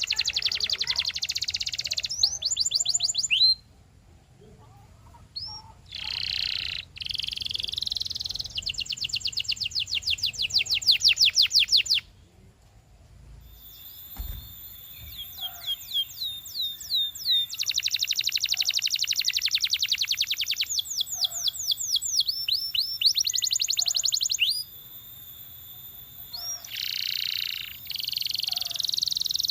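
Domestic canary singing: phrases of fast trills, each a rapid run of the same high note repeated many times, with short breaks between phrases and two longer pauses, about four and about twelve seconds in. A brief low thump sounds in the second pause.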